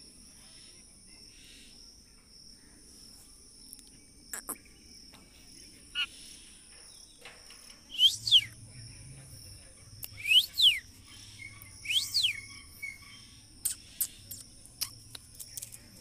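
A steady high insect buzz throughout, with loud, sharp bird calls from about halfway: short calls sweeping quickly up and down, three pairs roughly two seconds apart, then a few short chirps near the end.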